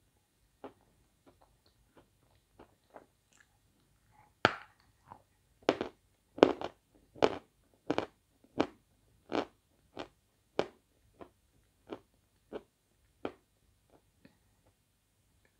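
Close-up crunching of a person biting and chewing chunks of Svetogorye chalk. There are a few soft crunches at first, then a run of sharp, loud crunches starting about four seconds in at roughly one or two a second, fading to softer ones near the end.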